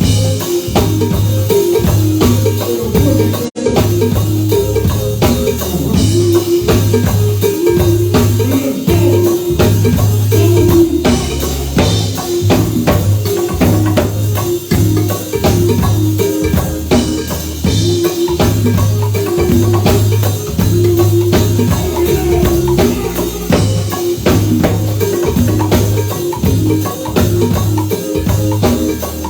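Live band playing an instrumental number, with a steady drum beat and a repeating bass line. The sound cuts out for an instant about three and a half seconds in.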